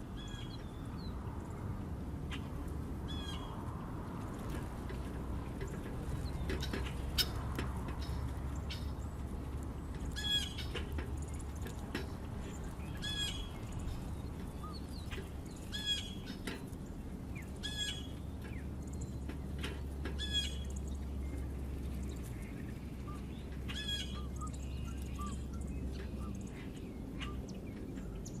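Wild birds calling outdoors, one bird repeating the same short call every two to three seconds, with scattered chirps from others, over a steady low rumble.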